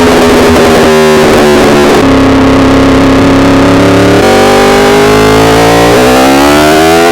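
Yamaha R1 inline-four engine running hard, its pitch holding steady at first and then climbing over the last three seconds as it revs up through a gear.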